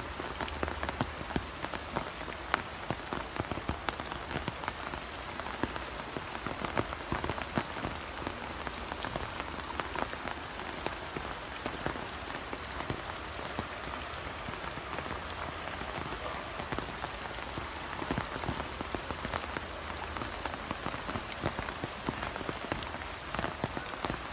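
Rain falling steadily, a dense hiss with many small drop ticks hitting a surface, and a faint low hum underneath for most of it.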